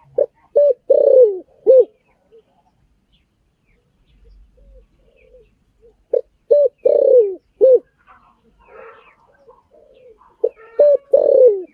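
Spotted dove cooing: three repeated phrases of a few short coos and a longer falling coo, about four to five seconds apart, with faint chirps of other birds in between. This is a dove decoy call.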